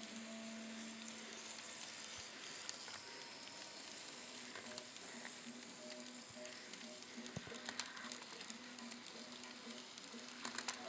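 N scale model train running on its track: a steady soft hiss with a faint motor hum, and a few small clicks in the second half, clustering near the end.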